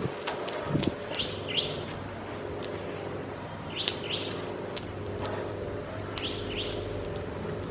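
A small bird repeating a quick two-note chirp three times, roughly every two and a half seconds. Under it are light clicks and taps as charred coconut shell is picked off and a knife is worked on the wooden table, with a faint steady hum throughout.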